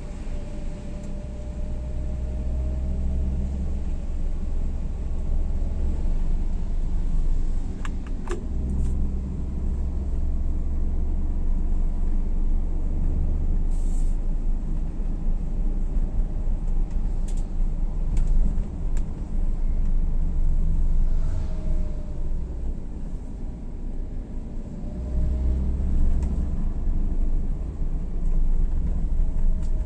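A vehicle driving, heard from on board: a steady low rumble of engine and road that swells and eases, with a few short clicks.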